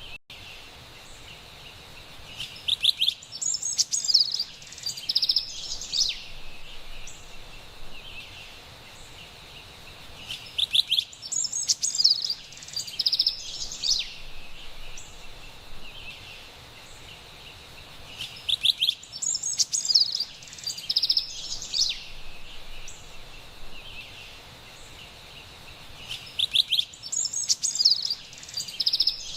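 Carolina wren singing: the same bright, loud phrase comes four times, about every eight seconds, each lasting about three seconds, over a steady faint high hiss of forest background.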